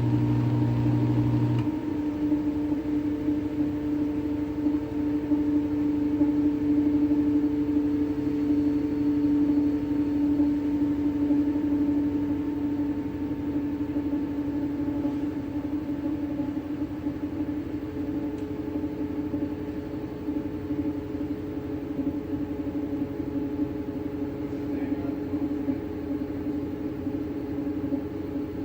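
Washing machine running with a steady droning hum and a low rumble. A lower hum drops out about a second and a half in.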